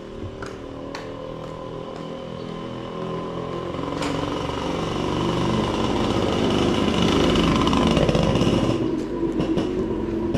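A motor vehicle's engine draws steadily closer and louder, passes at its loudest about eight seconds in, then falls away.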